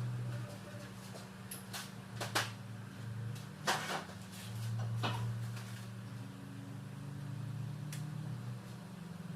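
A handful of sharp clicks and knocks, as of tools and parts being handled during engine work, over a steady low hum.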